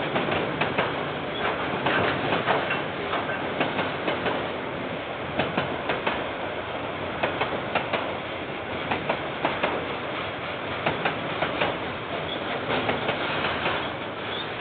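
A KiwiRail train's wagons rolling past: a steady rumble with frequent sharp, irregular clacks from the wheels running over the rail joints.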